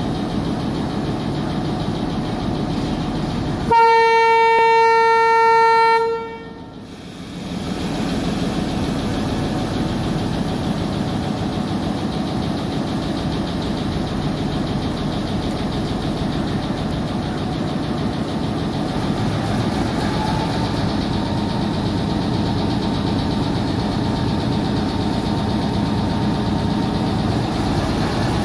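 Sri Lanka Railways M10 diesel locomotive sounding one loud, steady horn note for about two and a half seconds, about four seconds in, over the steady running noise of the moving train.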